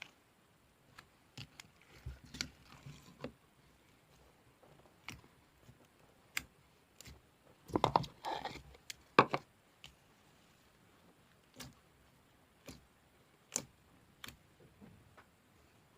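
Slime being played with by hand: scattered sharp clicks and pops, with a louder run of squishing about eight seconds in.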